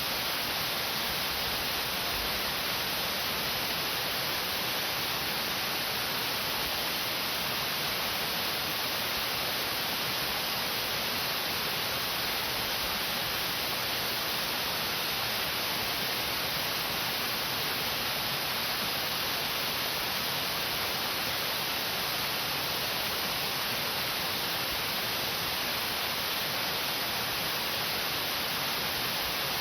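A waterfall of water running down a rock face: a steady, unbroken rush of water noise.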